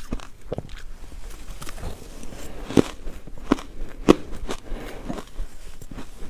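Ice cubes being crunched and chewed close to the microphone, in irregular sharp crunches. The loudest come around three to four seconds in.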